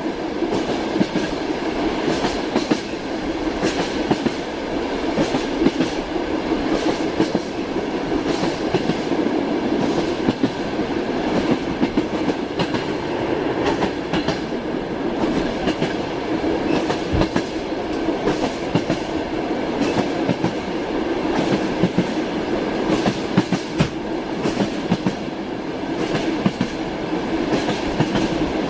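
Train running at steady speed: a continuous rumble of the wheels on the rails, with frequent clicks and knocks of the wheels over the rail joints (clickety-clack).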